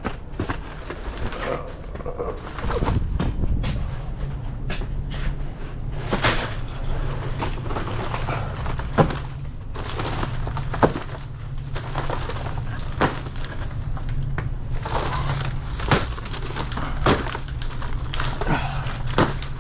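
Irregular knocks and rattling clatter of stacked drink cases being handled and wheeled, over a steady low hum.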